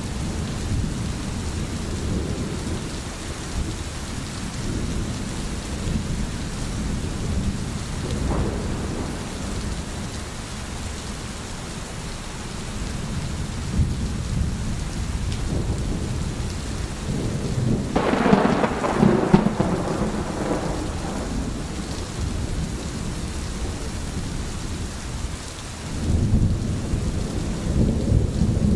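Steady rain with low rolling thunder throughout; a louder, sharper thunderclap breaks about two-thirds of the way through and rumbles for a few seconds, and the low rumble swells again near the end.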